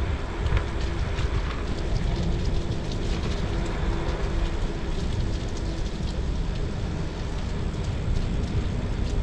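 Wind rumbling steadily on a handheld action camera's microphone during a bicycle ride on a wet road, with tyre hiss and many small scattered ticks.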